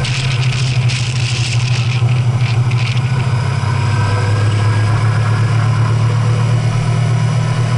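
A vehicle engine running with a steady low drone, recorded on board while driving, with patches of hiss in the first three seconds.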